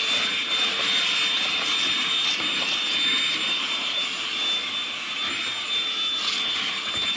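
Milwaukee M18 compact cordless vacuum running steadily: a high, even motor whine over the rush of air through its short crevice nozzle.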